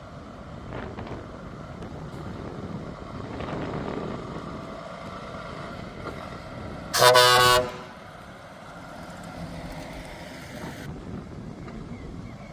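A truck horn gives one short, loud blast about seven seconds in, over the steady rumble of truck engines moving off.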